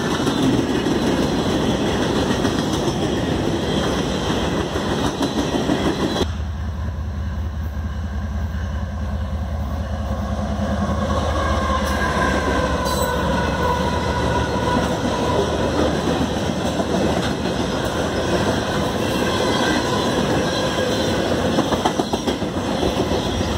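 Freight train rolling past close by, its cars rattling and clacking over the rails. About a quarter of the way in, the sound changes to the steady low drone of a CSX diesel locomotive's engine passing. From about halfway a faint wavering high tone sits over it.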